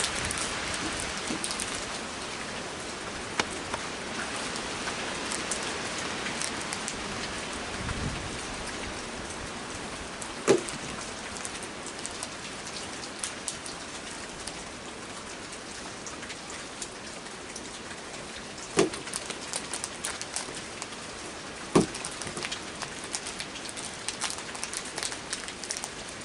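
Heavy rain falling steadily and pattering on surfaces, with a few sharp knocks or taps scattered through it, the loudest about ten seconds in and again near twenty-two seconds.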